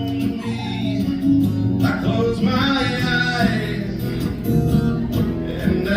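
Live country music: a guitar-led instrumental passage of a song, with strummed guitar under a sliding melody line.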